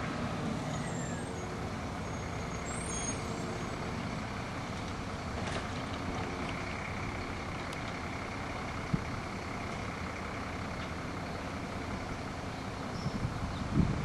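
Garbage truck running steadily, with a brief high squeak about three seconds in and a sharp click about nine seconds in; louder clattering begins near the end.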